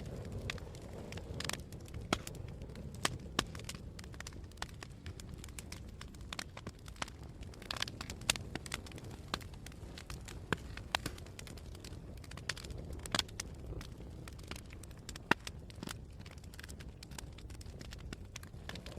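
Campfire crackling: irregular sharp pops and snaps over a steady low rumble of the burning fire and wind.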